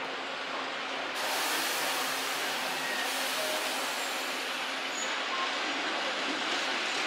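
Electric train running, a steady hiss of running noise. About a second in, a brighter hiss suddenly joins it and carries on.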